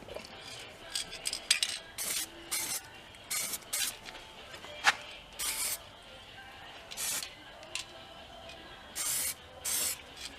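Aerosol spray paint can sprayed in about eight short, hissing bursts at uneven intervals, with one sharp metallic click about halfway through.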